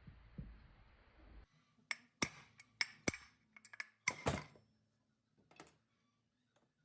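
Metal parts and tools clinking and knocking on a hard surface: about a dozen sharp strikes in quick succession between two and four and a half seconds in. A steady low hiss before them stops abruptly.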